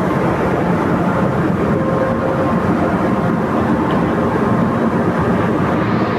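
Steady drone of a ferry's engines and machinery heard from inside the ship, a low, even rumble with a faint steady hum running through it.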